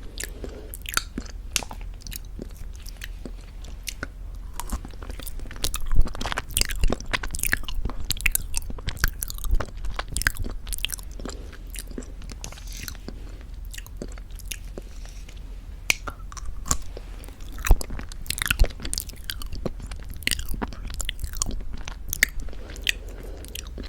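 Close-miked mouth sounds of eating very thick Greek yogurt with honey: irregular wet clicks and smacks of chewing and swallowing, a few of them sharper and louder.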